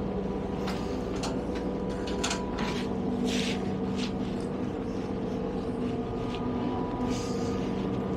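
Inside a diesel train carriage: a steady engine hum that steps up slightly about three seconds in, with scattered clicks and rattles.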